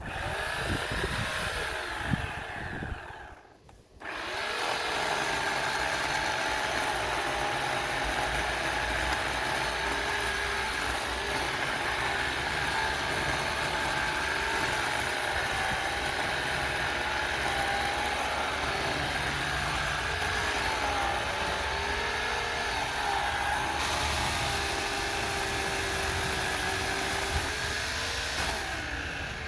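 Harbor Freight Portland chainsaw running: it winds down in pitch and nearly stops about three seconds in, then starts again about a second later and runs steadily, its pitch dipping slightly now and then as it cuts through a branch.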